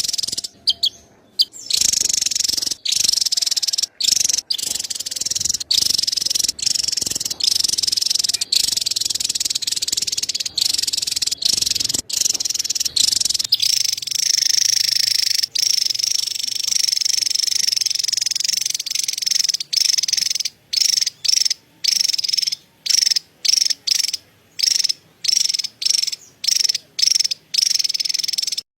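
Javan tesia giving its rapid, high-pitched chattering song, a dense continuous trill. About two-thirds of the way through it breaks into short phrases with brief gaps, roughly one and a half a second.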